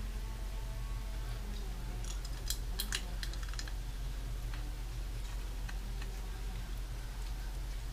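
Small metal drum hardware, screws and fittings, being handled and set down, giving a quick cluster of sharp clicks about two and a half to three seconds in and a few fainter clicks later, over a steady low hum.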